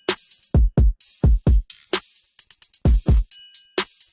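Programmed drum break playing back from FL Studio: deep kicks that drop in pitch, often in quick pairs, alternate with sharp snare and hi-hat hits in a steady rhythm.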